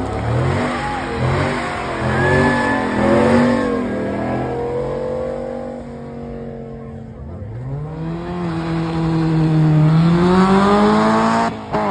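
Car engine being revved hard: several quick blips of the throttle, then a steady stretch, and after a brief dip it climbs to high revs and holds there before dropping off sharply near the end.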